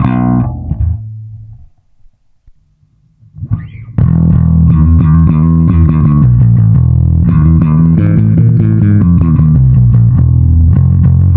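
Yamaha SBV-550 electric bass played through a Line 6 Bass POD amp modeller: a phrase rings out and dies away, a short pause follows, and about four seconds in a loud, driving run of notes starts and keeps going.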